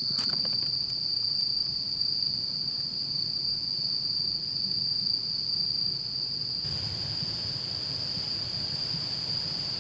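Crickets trilling in one continuous, unbroken high-pitched drone.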